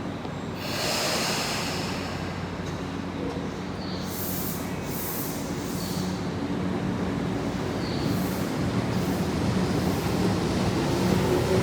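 Tobu 10030 series electric commuter train pulling away: a short hiss of air about a second in. Then the running noise grows louder, with light clicks about once a second and a motor tone climbing in pitch near the end as it gathers speed.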